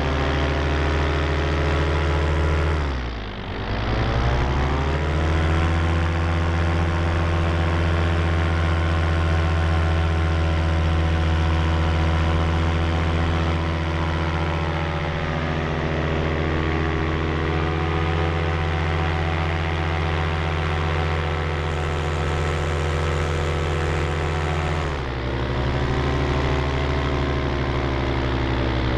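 An engine running at a steady speed. About three seconds in it is throttled sharply down and straight back up, and near the end it eases off a little.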